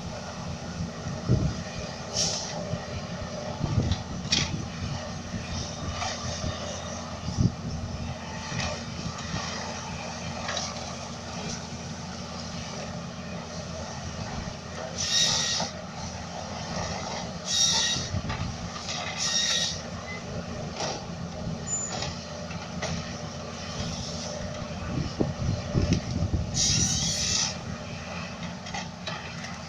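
Forestry excavator working: its diesel engine runs steadily under load, with a few sharp knocks and several short high-pitched squeals from the machine.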